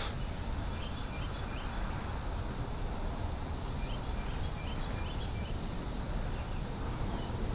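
A bird chirping in short runs of quick notes, about three just after the start and five more in the middle, over a steady low rumble.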